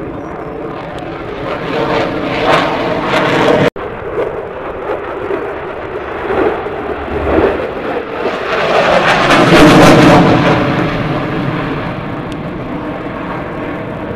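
Airplane engines flying past, swelling louder in several passes, loudest about ten seconds in. The sound drops out for an instant just under four seconds in.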